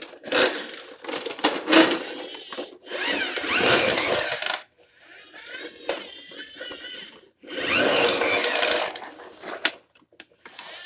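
Toy garbage truck's plastic action mechanism being worked by hand, whirring and rattling in four spurts with short pauses between them.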